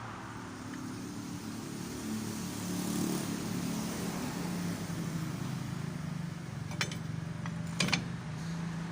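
An engine running steadily with a low hum, with two sharp metallic clinks of tools near the end.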